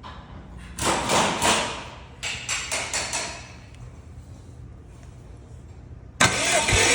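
Subaru EJ205 engine being cranked over by its starter for a compression test, in two short bursts of about a second each with a rapid pulsing rhythm. Music starts abruptly near the end.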